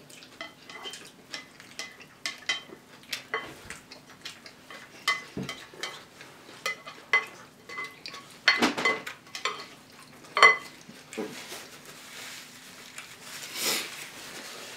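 Spoons clinking and scraping against cereal bowls as cereal with milk is eaten: irregular ringing clinks several times a second, with louder clusters about eight and a half and ten and a half seconds in. A faint steady hum runs underneath.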